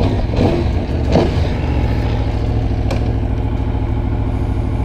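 Aprilia Tuono V4 1100 Factory's 1077 cc V4 engine idling steadily.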